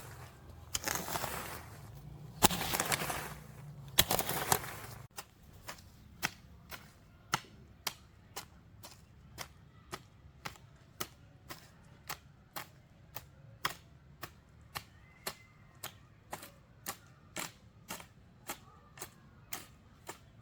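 Rustling and scraping for the first few seconds, then an even run of short, sharp taps, about two a second.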